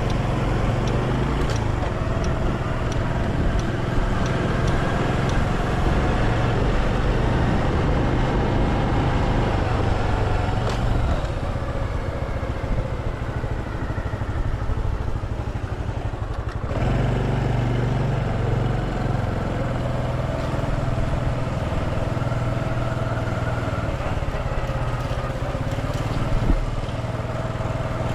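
Motorcycle engine running while riding, over a steady rush of road noise. The engine eases off about eleven seconds in and picks up again sharply some five seconds later.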